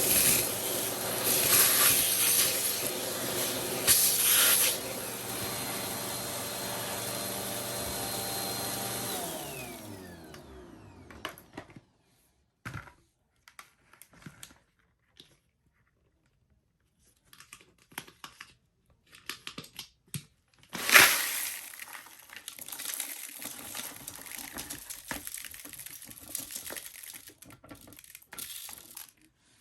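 Vacuum cleaner running with a hose attachment, with two brief surges in the suction noise. It is then switched off and its motor winds down with a falling pitch over about two seconds. Afterwards come scattered clicks and rattles from handling the plastic attachments, with one loud knock about two thirds of the way through.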